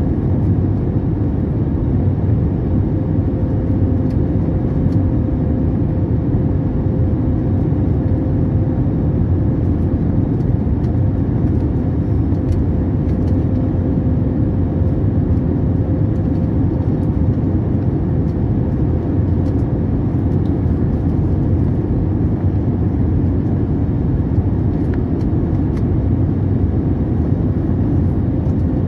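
Steady cabin noise of an Airbus airliner, its jet engines and the rushing air making a constant low drone with a faint steady hum on top.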